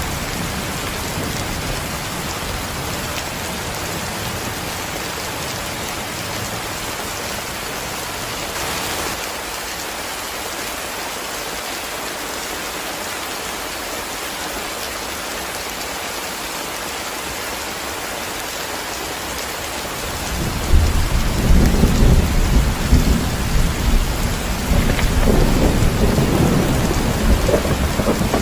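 Heavy rain falling steadily with an even hiss. A loud, rolling low thunder rumble comes in about two-thirds of the way through and keeps rumbling to the end.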